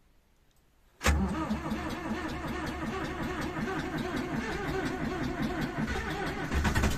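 Starter motor cranking the cold Ursus C360's four-cylinder diesel at about −10 °C. The cranking cuts in suddenly about a second in and turns the engine over steadily and rhythmically, but the engine does not catch on this first attempt.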